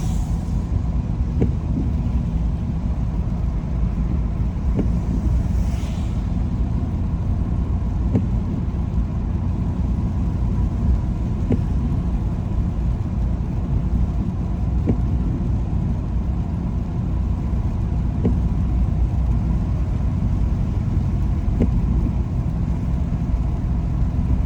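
A car driving on wet roads, heard from inside the cabin: a steady low rumble of road and engine. A faint tick comes about every three seconds, and a brief hiss about six seconds in.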